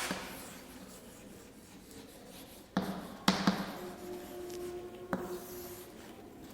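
Faint scratching and rubbing of writing on a board, with a few sharp taps about three seconds in and again near five seconds.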